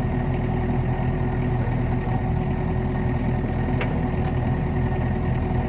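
Kubota KX71-3 mini excavator's diesel engine idling steadily.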